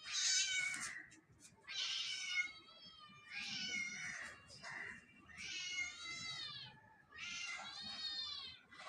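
Kittens mewing: about five high-pitched, drawn-out mews in a row, each about a second long and rising then falling in pitch, the first one the loudest.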